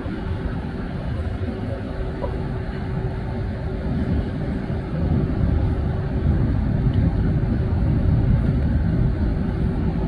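Jet airliner's engines rumbling as it passes, swelling louder over several seconds and easing slightly near the end, over a steady hum.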